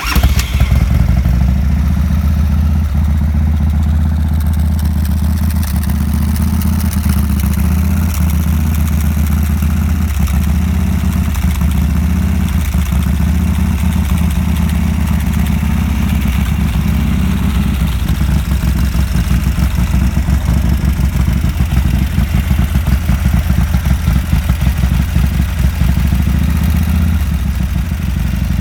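1987 Harley-Davidson FXRP's Evolution V-twin, fitted with an Andrews EV27 cam, firing up from cold on choke right at the start and settling into a steady idle.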